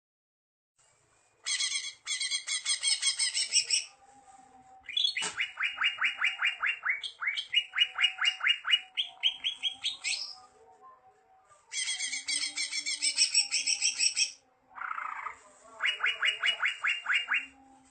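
A cucak ijo (green leafbird) singing in full voice: bursts of rapid, repeated, high whistled notes and trills in several separate phrases, with short pauses between them. One brief lower, sliding phrase comes near the end.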